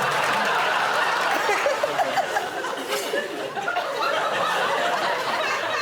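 Studio audience laughing, many voices overlapping, the laughter holding steady.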